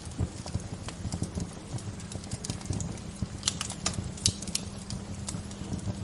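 Wood fire crackling: irregular sharp pops and snaps over a low steady rumble, with a cluster of louder pops in the second half.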